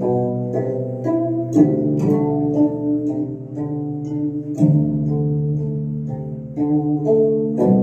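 Instrumental music on a plucked string instrument, a slow melody of single notes plucked one after another and left to ring.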